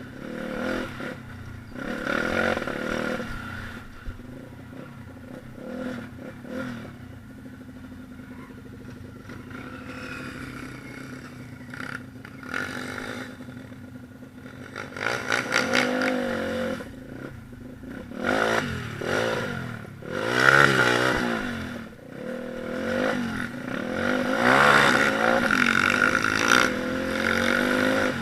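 Single-cylinder four-stroke pit bike engine running, revving up and down in repeated rising and falling sweeps. The biggest rev comes about two-thirds of the way through.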